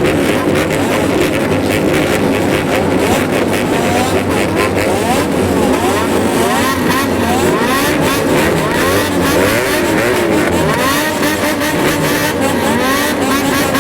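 A pack of customized motorcycles with straight-pipe exhausts riding, their engines revved up and down again and again, many at once, in a loud continuous blare.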